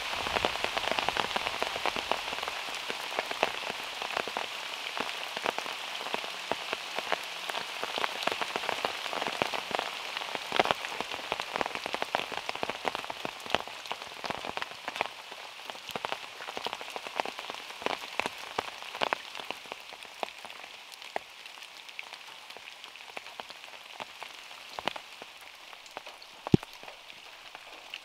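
Rain falling on a small car: a steady hiss with many separate drops ticking on the roof, some from the trees overhead. The rain eases gradually, with a single louder drop hitting near the end.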